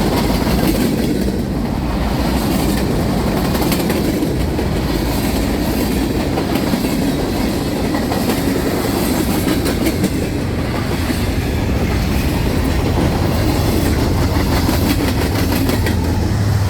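Freight train's cars rolling past at steady speed, the wheels clicking over the rail joints.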